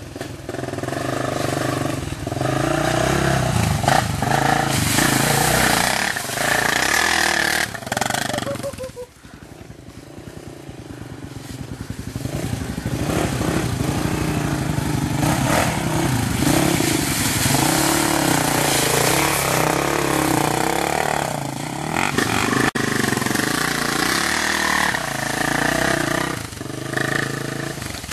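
Dirt bike engines revving and running hard, rising and falling in pitch; the engine sound drops away about nine seconds in, then builds back up over the next few seconds.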